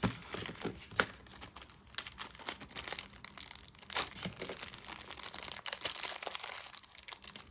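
Plastic packaging crinkling and crackling in irregular bursts, with sharp clicks, as a bag of small parts is handled and opened.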